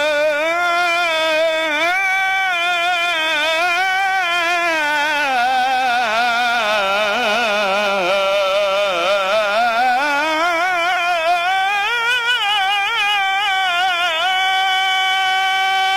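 A man's voice chanting a religious ibtihal in Arabic, drawing out one word in a long, heavily ornamented melisma. Quick trills waver the pitch, which sinks low in the middle and climbs back, then settles into a steady held note near the end.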